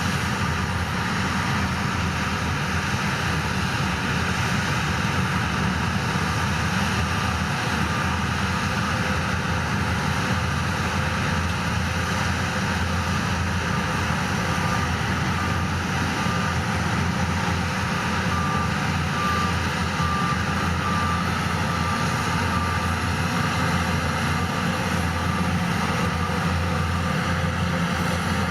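Heavy diesel machinery running steadily at a work site. Partway through, a reversing alarm beeps at an even pace for several seconds and then stops.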